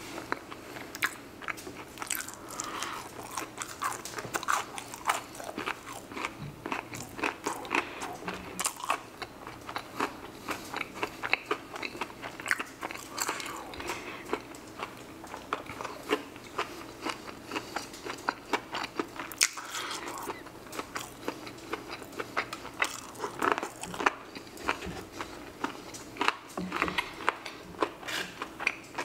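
Close-up chewing and crunching of breaded fried boneless chicken wings, with many sharp, irregular crunchy clicks throughout.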